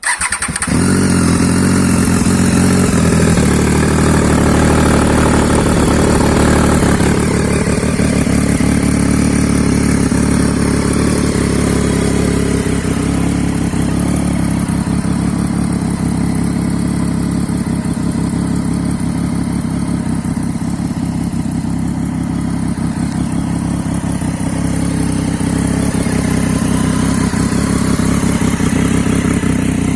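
Superbike engine running at a steady idle, coming in suddenly and loud at the start, with only small changes in its note and no big revs.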